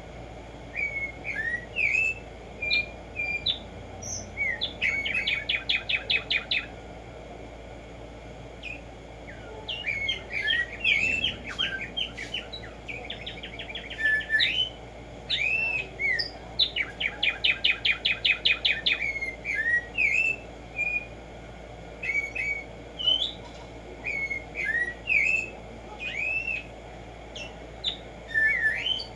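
Black-striped sparrow (tumba yegua) singing: short whistled notes and slurred phrases, twice breaking into a fast run of rapidly repeated notes lasting about a second and a half, over steady low background noise.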